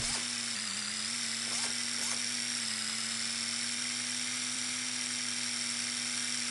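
Electric motor of an RC monster truck running at a steady speed: a constant small-motor hum with a thin high whine, its pitch wavering slightly.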